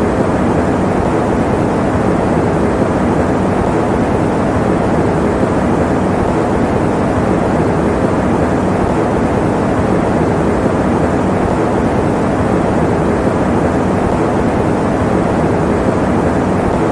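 Electric fan running steadily: an even, constant whoosh of air weighted toward the low and middle range, with no changes.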